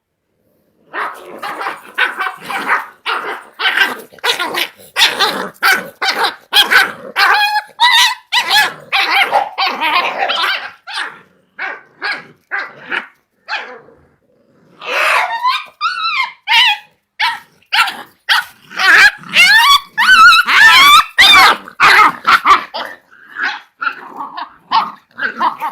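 Kombai puppies fighting: a rapid run of growls and short barks, mixed with high yelps that rise and fall in pitch. It starts about a second in and dips briefly past the middle.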